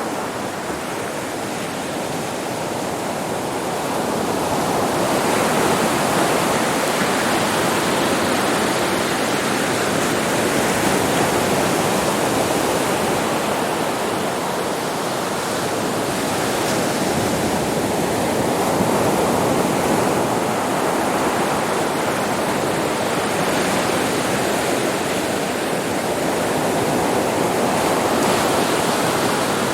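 Ocean waves breaking on a beach, a continuous wash of surf that swells and eases every several seconds.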